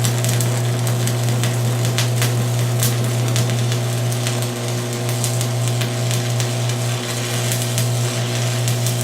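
Arc welding with a 6024 stick electrode on a small Miller welder: the arc crackles and sizzles steadily, with scattered sharp pops, over a steady low hum.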